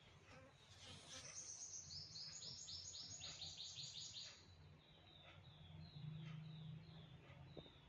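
Faint bird chirping: a quick run of high, repeated notes, about four a second, then softer, lower chirps spaced further apart.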